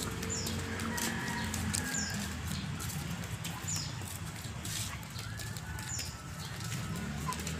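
A bird repeating a short, high chirp that falls in pitch, about once every two seconds, over a low steady hum and light footsteps on pavement.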